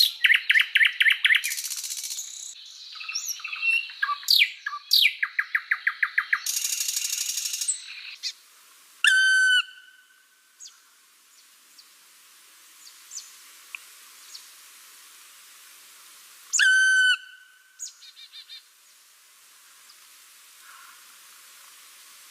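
Java sparrows chirping and trilling rapidly for the first eight seconds or so, then quieter, with two loud drawn-out whistled calls about nine and seventeen seconds in.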